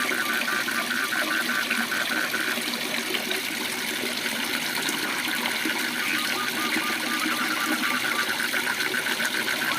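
Waterfall rushing steadily, with a frog calling in rapid trains of pulses, about seven a second. The frog's call stops about two and a half seconds in and starts again near two-thirds of the way through.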